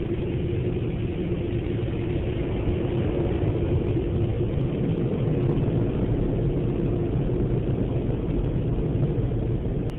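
Automatic car wash dryer blowers running, a steady loud rush of air with a low rumble, heard from inside the car.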